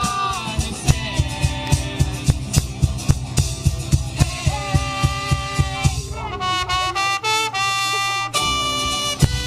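Live band playing an instrumental passage of a folk-rock song, with a steady drum beat under held notes from the instruments. The long held notes come strongest about two thirds of the way in.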